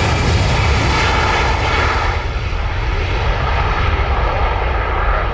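Jet airliner's engines running loud and steady with a deep rumble; the high hiss fades after about two seconds as the aircraft draws away.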